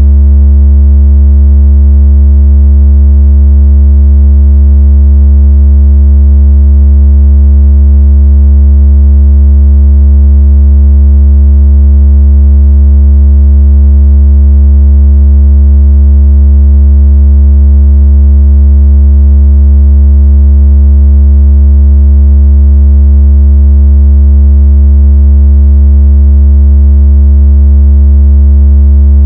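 A synthesized deep bass tone, played continuously as a 'water out of speaker' / phone-vibration sound: one very loud, steady hum with fainter overtones above it and no change in pitch or level.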